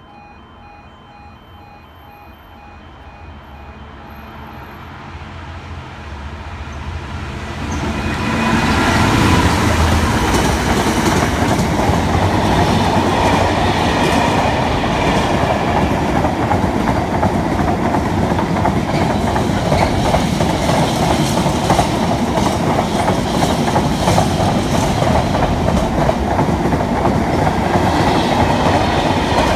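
A Class 66 two-stroke V12 diesel freight locomotive approaches, growing steadily louder until it passes about eight seconds in. Loaded container wagons follow, their wheels rumbling and clattering steadily over the rails. A faint pulsing level-crossing warning tone is heard at the start.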